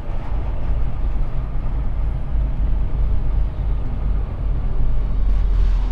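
Semi truck running down the highway, heard from inside the cab: a steady low rumble of diesel engine and road noise.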